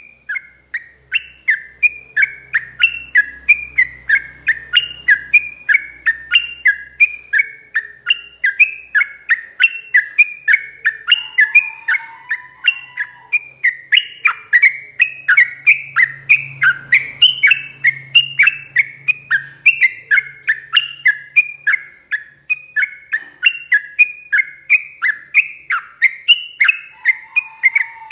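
Yellow-vented bulbul (trucuk) singing a long, unbroken rapid song of short whistled notes, each falling in pitch, about three to four a second. A brief lower note sounds twice, about eleven seconds in and near the end.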